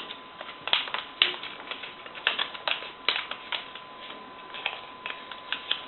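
A sheet of paper being folded and creased by hand, crinkling and crackling in quick, irregular clicks.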